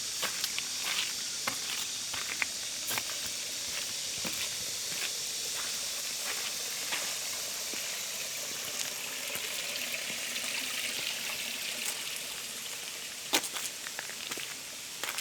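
Steady hiss of flowing water, interrupted by scattered light clicks and taps and one sharper knock near the end.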